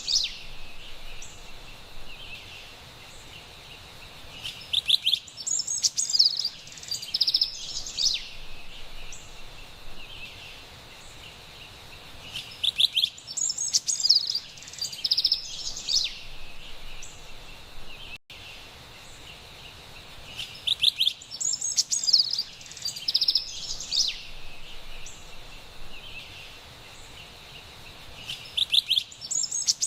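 Carolina wren singing in four bouts of high, rapidly repeated notes a few seconds apart, over a steady hiss of forest background noise.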